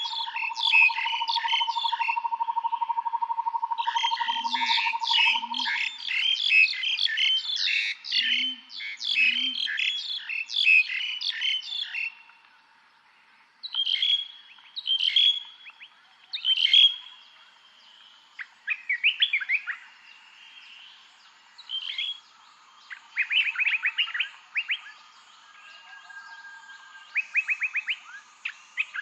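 Several wild songbirds singing: a dense overlapping chorus of quick chirps for about twelve seconds, then scattered separate calls and fast rattling trills. A steady, even trill at a lower pitch runs underneath during the first six seconds or so, then stops.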